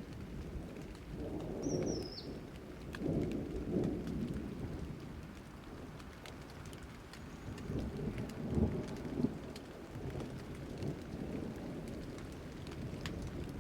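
Steady rain with scattered drops and several low rolls of thunder swelling and fading. A brief high falling chirp comes about two seconds in.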